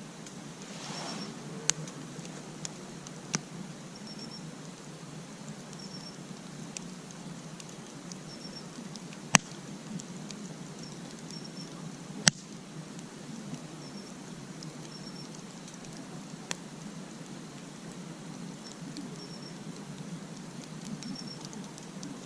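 Campfire crackling, with scattered sharp pops of burning wood, the loudest two about nine and twelve seconds in. Faint short high chirps repeat every second or two.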